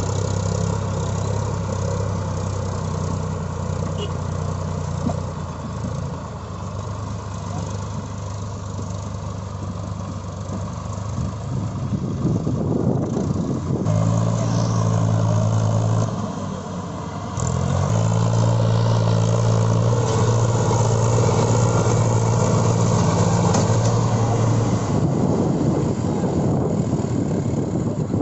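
Diesel tractor engine working hard under a heavy load, its revs rising a little under halfway through, dipping briefly, then held high before easing near the end.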